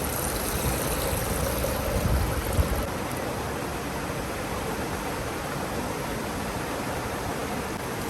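A river rushing: a steady, even hiss of flowing water, with a brief low rumble about two seconds in.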